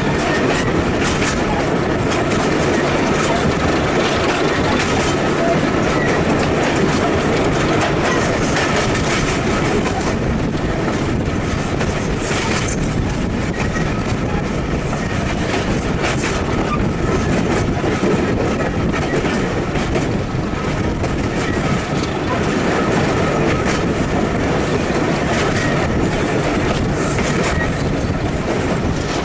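Train running along the track, its wheels clattering over the rail joints in an irregular clickety-clack under a steady rumble, heard from on board at the carriage window.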